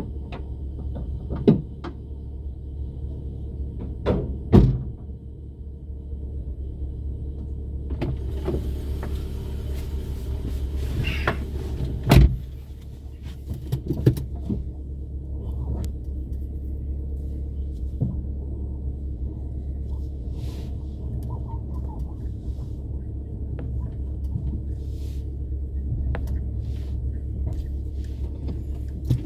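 Car driving along a street: a steady low rumble of engine and road, with a few sharp knocks and rattles. A hissing sound rises and fades between about eight and twelve seconds in.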